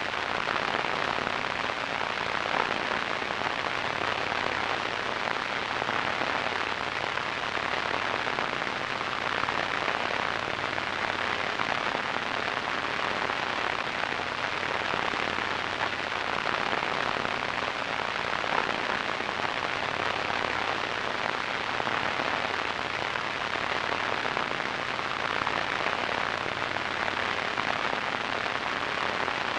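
Radio static: a steady, even hiss that does not change.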